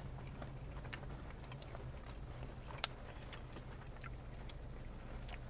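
Faint chewing and small wet mouth clicks from someone eating a burger, over a steady low hum.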